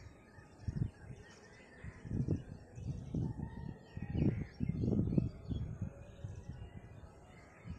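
Birds calling in the open, over a series of irregular low thumps that are the loudest sounds.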